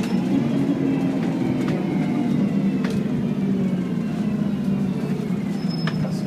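ADL Enviro 400 Integral double-decker bus with a Voith four-speed gearbox, running with a whine whose pitch falls slowly, as when the bus slows down.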